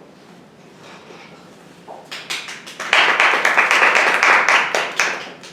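Audience applauding, starting about two seconds in, swelling quickly into steady clapping and thinning out near the end.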